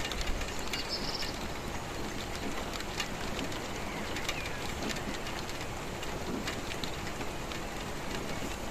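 Steady rainfall, a dense even hiss with individual drops ticking close by. A brief high bird call sounds about a second in.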